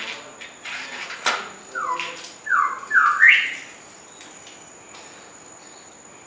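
Squeaky fart: a few short noisy bursts, then a run of short squeaks that slide down in pitch, the last one sliding up, all over about three seconds.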